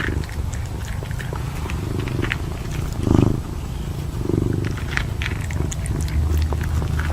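A cat purring, a steady low rumble, with a short louder sound about three seconds in and scattered faint clicks.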